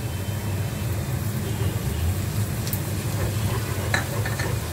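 Onions, whole spices and freshly added garlic frying in oil in a metal pot, over a steady low hum. A wooden spoon stirs, knocking against the pot a couple of times in the second half.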